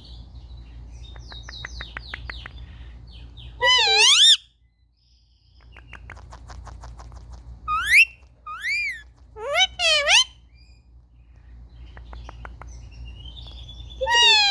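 Indian ringneck parakeet giving loud, warbling calls that swing up and down in pitch, about five of them, one near the end. Between the calls come runs of quick, soft clicking chatter.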